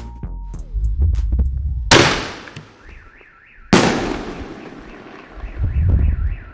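Two 6-inch canister firework shells bursting overhead about two seconds apart, each a sharp bang trailing off in a rolling echo. After the second bang, a warbling tone sweeps up and down several times a second.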